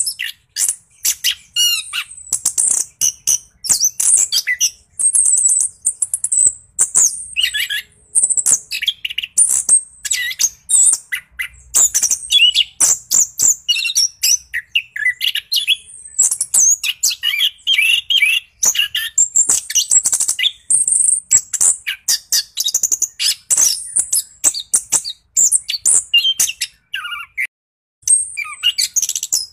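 Orange-headed thrush singing a fast, continuous, varied song of rapid high chirps, trills and whistles, broken only by a short pause near the end.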